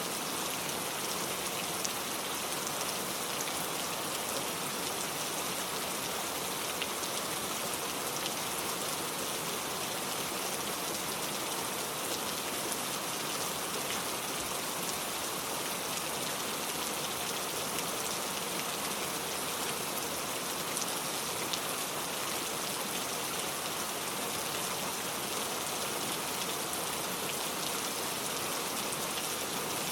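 Steady rain falling in a forest, an even hiss with fine patter of drops, unchanging throughout.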